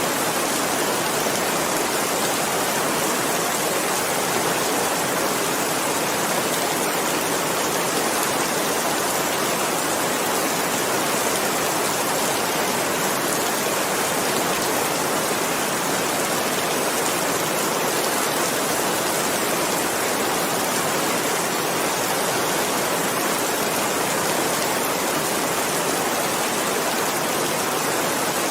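Steady, dense rainfall, an even hiss of many drops with no single drops or thunder standing out.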